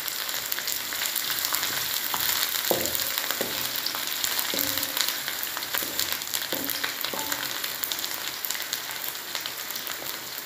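Garlic, shallots, ginger, lemongrass and chillies sizzling steadily in hot oil in a wok, with a wooden spatula stirring and knocking against the pan now and then. The aromatics are being sautéed until they turn fragrant.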